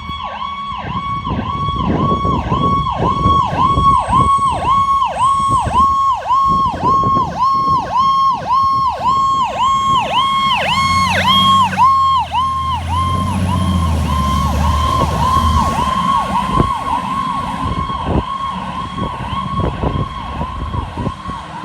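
Fire engine's electronic siren, a Federal Signal PowerCall, on a fast warble: the tone dips and rises about twice a second. A lower rumble from the truck comes in under it through the middle as it passes, and the siren thins a little near the end.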